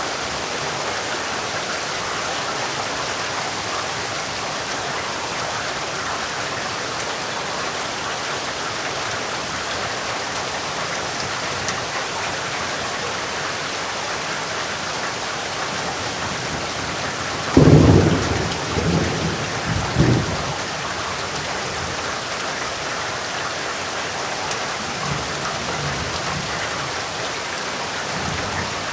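Steady rain falling, with a sudden clap of thunder about two-thirds of the way through that rolls in a few surges over about three seconds, and a fainter rumble of thunder a little later.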